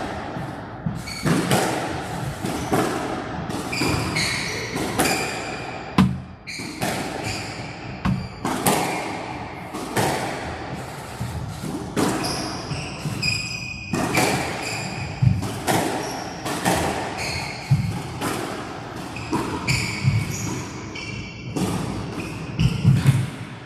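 Squash rally: the ball struck hard by rackets and smacking off the court walls, a sharp hit every second or two, with shoes squeaking on the court floor now and then.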